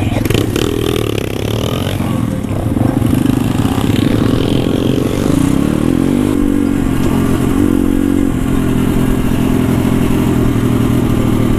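Pit bike engine running at low revs, its pitch shifting slightly a few times before settling into a steady run.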